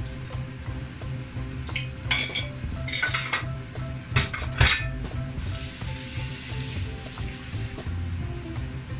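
Red cabbage frying in a pot on the stove, with a spoon and pots clinking and knocking a few times about two to five seconds in, and a hissing sizzle a little later.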